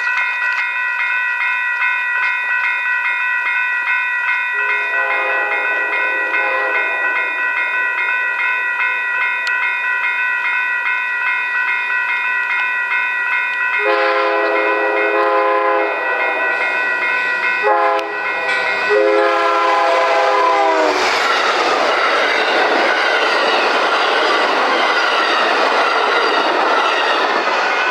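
A grade-crossing signal's bells ring steadily as a passenger train approaches, sounding its multi-note horn. The horn is faint at first, then gives several loud blasts, the last one long. From about two-thirds of the way in, the train rushes past with wheels clattering on the rails.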